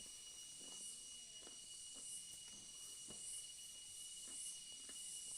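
Soft, irregular chewing and mouth sounds of someone eating boiled vegetables, a few small clicks and smacks a second, over a steady high hiss and faint whine.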